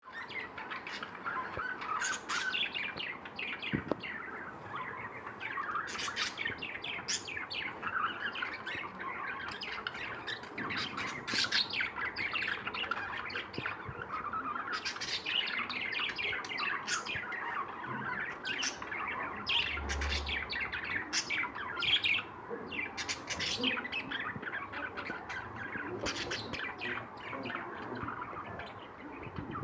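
A group of caged lovebirds chirping and chattering, many short calls overlapping without a break, with sharper shrill calls standing out now and then.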